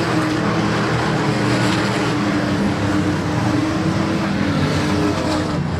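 Engines of several race trucks running at racing speed around a short oval, a steady mix of engine notes.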